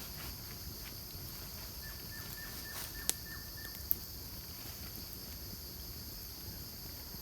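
Forest insects keep up a steady high drone, and a couple of seconds in a run of about seven quick, even chirps at one pitch sounds. Two sharp clicks come near the middle.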